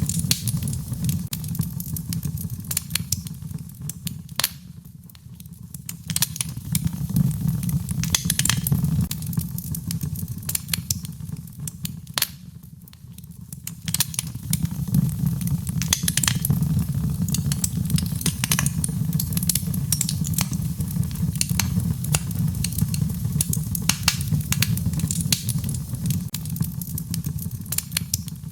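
Wood fire crackling in a fireplace: frequent sharp pops and snaps over a steady low rumble of the flames, which eases briefly twice.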